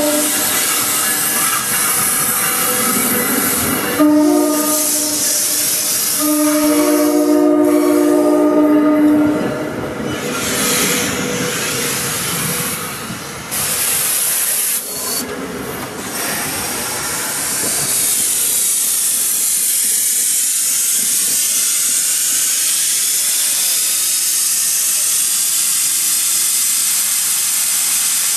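An arriving NJ Transit train blows its air horn in a long blast and then two more. The horn is followed by the steady rolling rush and hiss of the ALP-46A electric locomotive and its Comet coaches passing slowly alongside.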